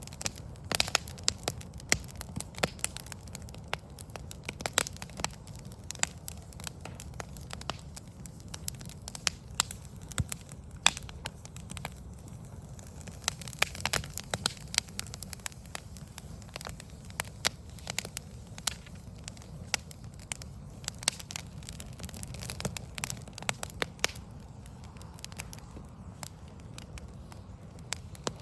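Wood fire of burning logs crackling, with irregular sharp pops and snaps several times a second over a steady low rumble.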